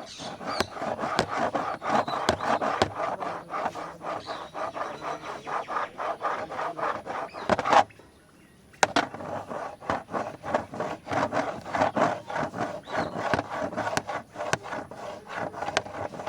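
Rapid scratching and rubbing on a large camera's body, a dense run of quick strokes. A sharper click comes about halfway through, then a pause of about a second before the scratching resumes.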